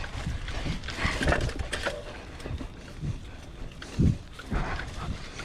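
Mountain biker breathing hard while pedalling uphill in a low gear, with irregular low thumps and rustling from the ride on the microphone.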